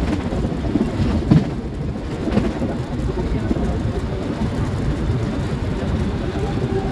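Steady low rumble of a Mumbai suburban local train, with indistinct voices under it and one louder bump about a second in.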